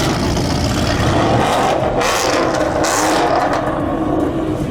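A car's engine running loudly with a deep, dense low rumble as the car cruises past, and a faint engine tone coming through in the second half.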